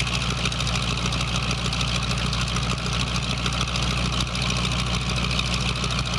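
Car engine idling steadily, an even, fast-pulsing rumble.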